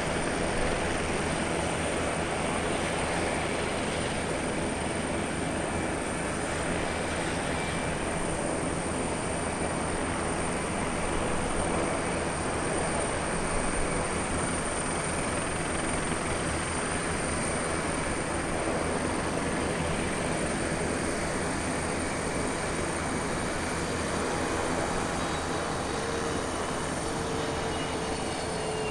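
Jet aircraft engines running: a steady rushing noise, with a faint tone falling slowly in pitch near the end.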